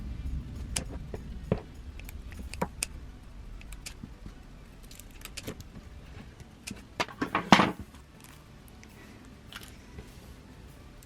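Scissors snipping and handling noise as a foam squishy filled with slime is cut open: scattered small clicks and rustles, with a louder cluster about seven and a half seconds in.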